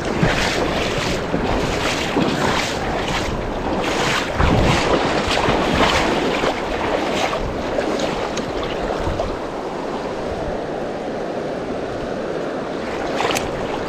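Rushing creek water with wind buffeting the microphone, broken by a run of brief swishes over the first half and a low gust about four and a half seconds in.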